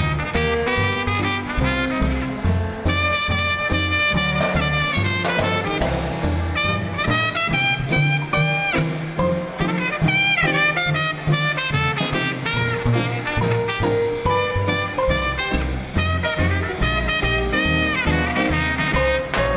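Small swing band playing an instrumental chorus, with trumpet and saxophone lines over a bass and rhythm section.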